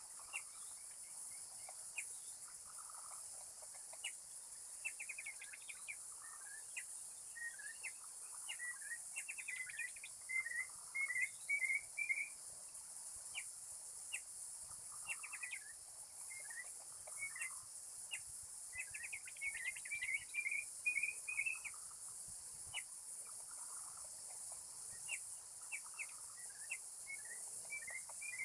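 Golden whistler (kancilan emas) song: phrases of quick whistled notes climbing in pitch, repeated every few seconds, louder around a third and two-thirds of the way through. A steady high hiss of insects runs underneath.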